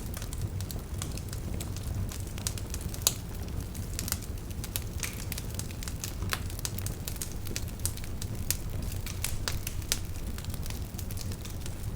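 Wood fire burning steadily, with a low rumble of flames and frequent sharp crackles and pops of the burning logs, a few louder pops standing out.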